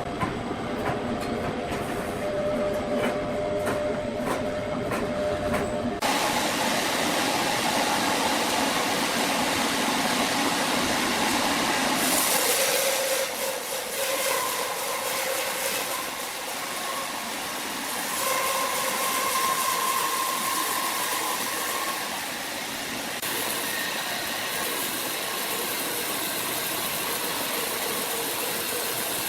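Sawmill machinery running: a steady, noisy mechanical din with a faint whine over it, changing abruptly a few times as the shots change.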